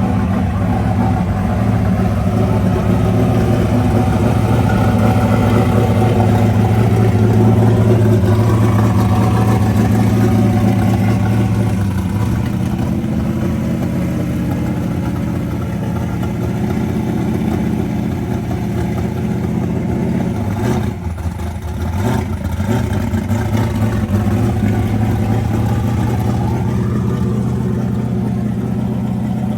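Car engine idling steadily, its pitch shifting slightly about twelve seconds in, with a brief dip around twenty-one seconds.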